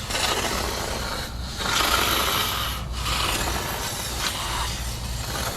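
Aerosol can spraying coating through an extension tube into the cavities of a car trunk deck panel: a steady hiss in three long bursts, with short breaks about one and a half and three seconds in.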